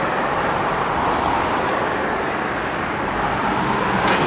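Steady road traffic noise: a continuous hiss of passing cars and tyres on the road, with a faint click about two seconds in.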